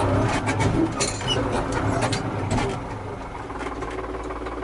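Tractor engine running steadily, with sharp metallic clanks and rattles over the first three seconds that die away after.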